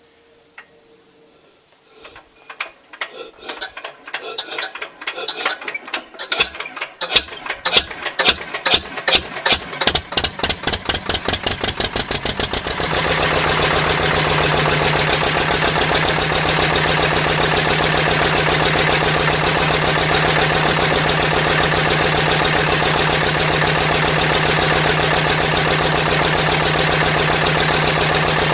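1981 Lister stationary diesel engine being hand-cranked, its turning beats speeding up for about ten seconds, then catching about thirteen seconds in and running steadily.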